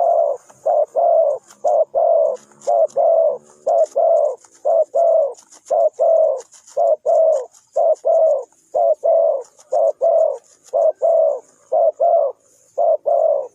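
Dove cooing: a long unbroken run of short, low coos in quick groups of two or three, with faint high chirps behind.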